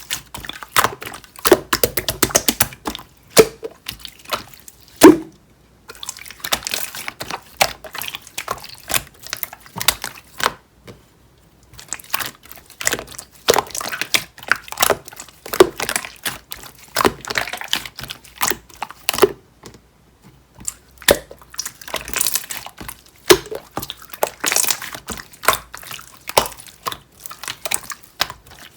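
Clear slime being squished and pressed by hand, giving wet, sticky clicks and small bubble pops in irregular bursts, with a quick run of tiny pops about two seconds in and one louder pop about five seconds in.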